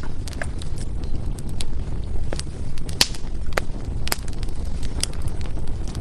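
Firewood burning with irregular sharp crackles and pops over a steady low rumble; the loudest pop comes about three seconds in.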